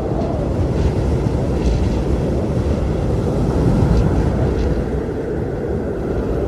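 Strong blizzard wind blowing steadily with a deep rumble, and a faint howl that rises and falls in pitch.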